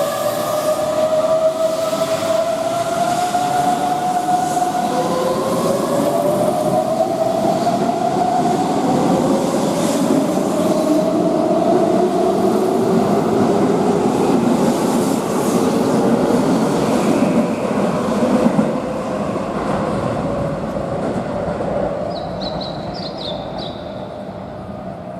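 Keihan electric train moving through the station: rolling noise and a motor whine that drifts up and down in pitch. It fades over the last several seconds, with a few brief high chirps near the end.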